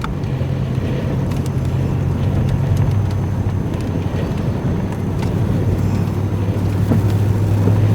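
Engine and road drone heard from inside a moving vehicle: a steady low hum that shifts lower in pitch about three seconds in.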